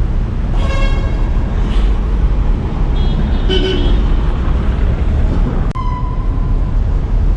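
Street traffic rumbling, with car horns sounding a few times.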